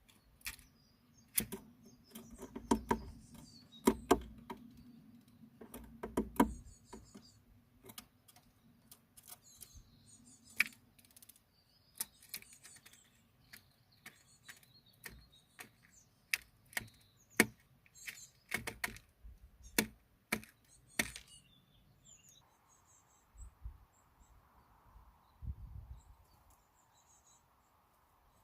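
Small birds chirping in short high calls amid irregular sharp taps and clicks. A faint steady hum comes in near the end.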